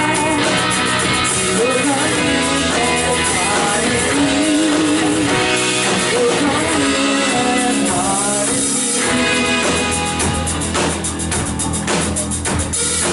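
Live worship band playing an instrumental passage with guitar carrying a wavering melody; the drum kit comes in with steady strokes about ten seconds in.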